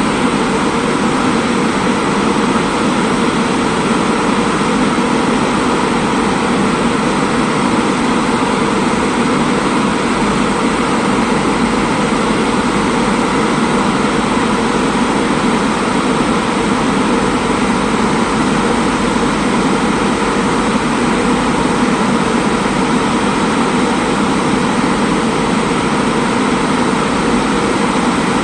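LHB passenger coaches of an express train rolling past on the track as it departs, a loud steady running noise with no letup.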